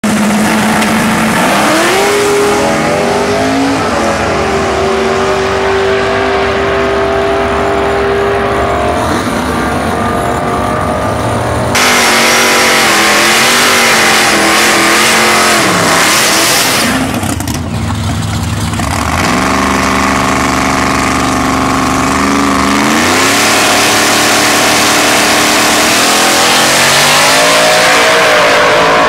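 Small-block Ford V8 drag-racing Mustangs running and revving, their engine pitch climbing and holding in stretches. The sound changes abruptly about twelve seconds in and dips briefly a few seconds later, as the footage cuts between runs.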